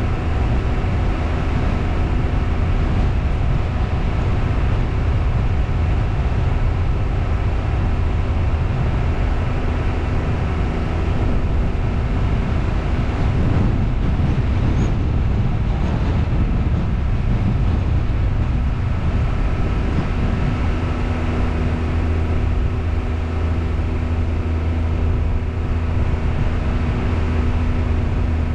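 A car driving, with its engine humming steadily over road noise. The engine note shifts about halfway through, then settles again.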